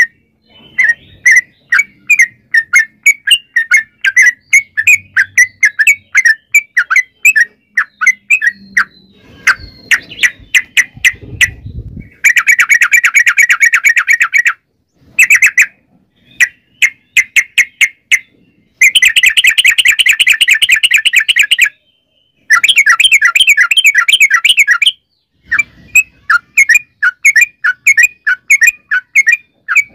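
Yellow-vented bulbul singing: quick series of bubbly chirps, broken by three long, very fast chattering runs, each a few seconds long, starting about twelve, nineteen and twenty-two seconds in.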